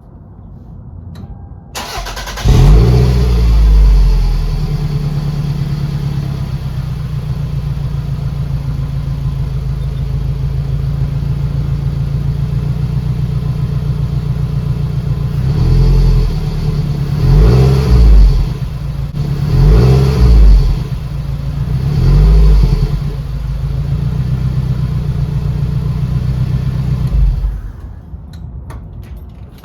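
2004 Toyota RAV4's engine and exhaust: it starts about two seconds in with a brief rev flare, settles into a steady idle, is blipped in several short revs, and shuts off near the end.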